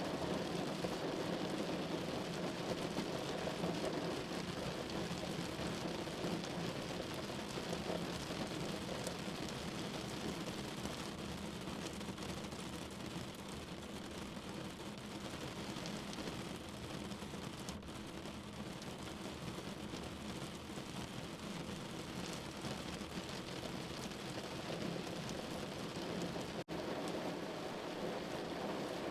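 Steady rain pattering on window glass, an even hiss of drops. A split-second dropout breaks it near the end.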